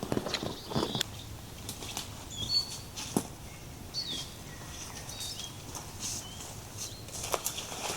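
Small forest birds calling in short chirps and whistles, over scattered sharp snaps and rustling.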